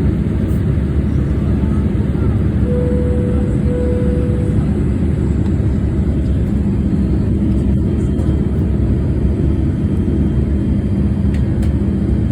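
Steady low rumble of a Boeing 787 Dreamliner's engines and airflow heard inside the passenger cabin during the climb after take-off. A short steady tone sounds twice in quick succession about three seconds in.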